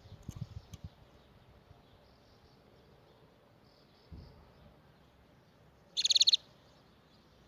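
A canary gives one short, rapid high trill about six seconds in, with faint chirps before it. Soft low thumps come in the first second and again just after four seconds.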